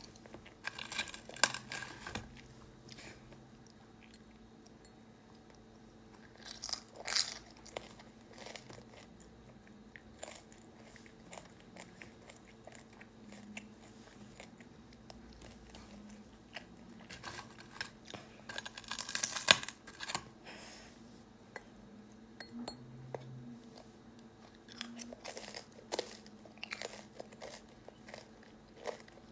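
A person chewing and crunching food close to the microphone, in scattered bouts with quiet gaps between, the loudest about two-thirds of the way through.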